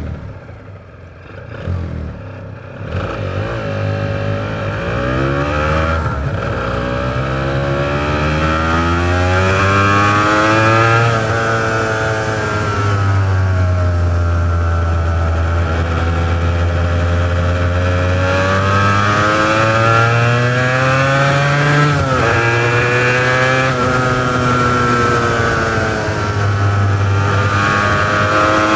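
Honda NS400R's three-cylinder two-stroke engine, breathing through its original mufflers, quieter for the first few seconds and then pulling hard with the revs climbing. The revs drop sharply at a gear change about six seconds in and another just past twenty seconds. In between they fall away and build again.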